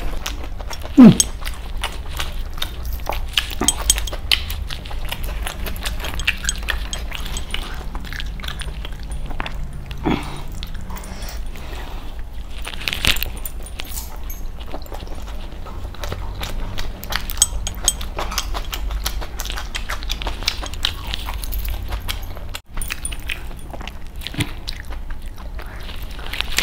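Close-miked chewing, lip-smacking and small mouth clicks of a man eating chicken leg pieces and bhakri with his hands, over a steady low hum. About a second in there is one loud, short vocal sound that falls in pitch.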